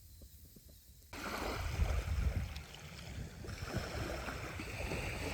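Seaside wind and water noise, with wind buffeting the microphone as a heavy low rumble. It starts abruptly about a second in, after a quiet stretch with a few faint clicks.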